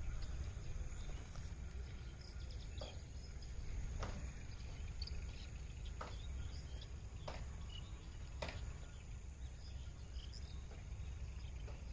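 Outdoor natural ambience: a steady low rumble with scattered short high chirps and a few sharp ticks every second or two.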